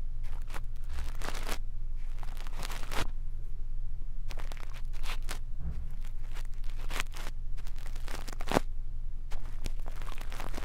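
Brush bristles scratching and rustling close against a microphone, as in ear-cleaning ASMR: a string of irregular short strokes, over a steady low hum.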